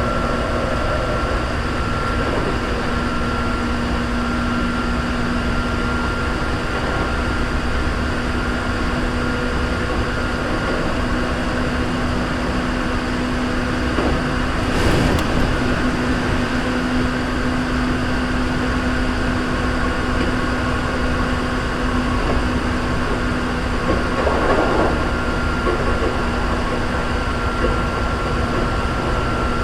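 Hankyu 3300 series electric train running at steady speed between stations, heard from inside: a steady rumble of wheels on rail with a constant whine. Brief louder bursts come about halfway through and again about ten seconds later.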